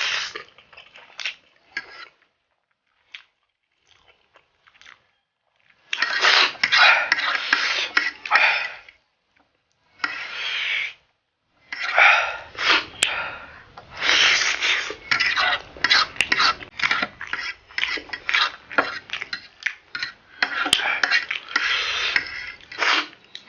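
Close-up eating of Buldak ramen noodles: a few seconds of small mouth clicks, then about six seconds in long loud stretches of slurping and chewing, broken by short pauses.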